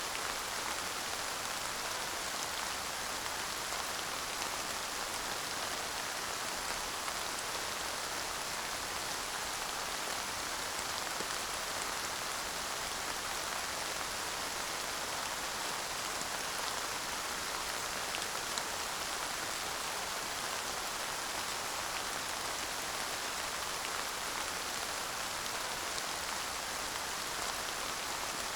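Steady light rain falling on a surface: an even hiss of rain with scattered drop ticks and no thunder.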